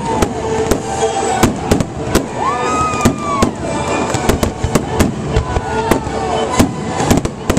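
Aerial fireworks going off in quick succession: a rapid run of sharp bangs, two to three a second, as shells launch and burst.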